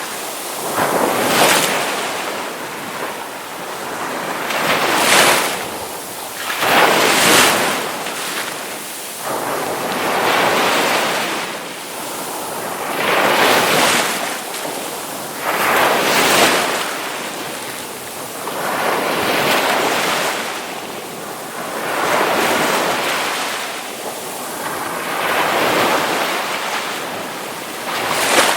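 Ocean waves breaking on a shore, one surge of surf after another every two or three seconds, each swelling and washing back.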